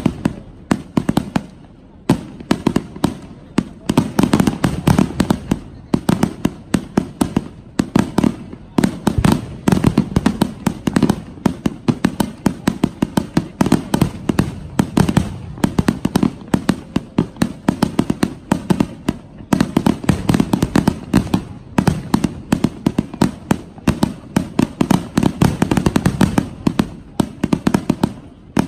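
A big fireworks display going off in rapid fire: many sharp bangs a second from salvos of shells, with a couple of brief lulls.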